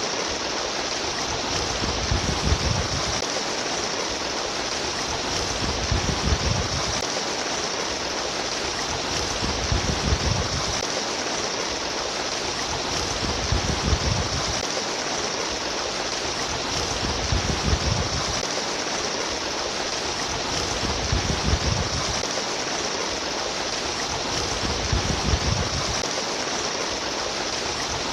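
Water streaming and splashing in a steady rush, with a low rumble that swells and fades about every four seconds.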